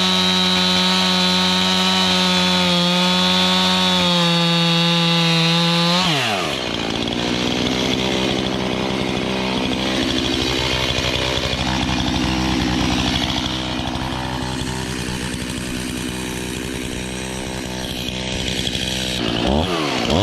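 Two-stroke chainsaw held at full throttle with a high, steady whine for about six seconds. It then drops sharply in pitch and runs rougher under load as it cuts through wood for most of the rest, revving back up briefly near the end as the cut finishes.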